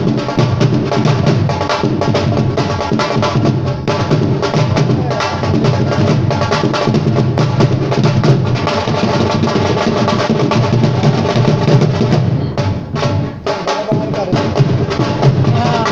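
Live drumming in a fast, dense rhythm over a sustained melodic line, with a brief break in the beat near the end.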